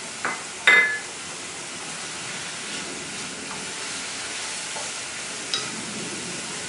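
Pork, shrimp and chilies sizzling steadily in a frying pan as they are stirred with a wooden spatula. A ceramic bowl clinks as it is set down just under a second in, and there is a light knock about five and a half seconds in.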